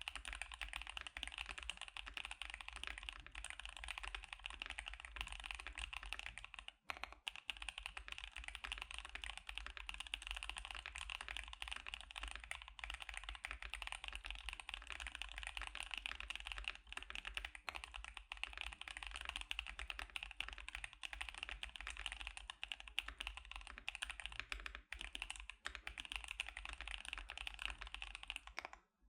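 Steady, rapid typing on a KBD75 custom mechanical keyboard fitted with Gazzew Boba U4T tactile switches and CannonCaps CXA keycaps, with a brief pause about seven seconds in.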